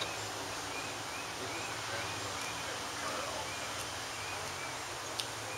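Steady low hum of an idling diesel locomotive engine, with a small bird chirping over it about two or three times a second.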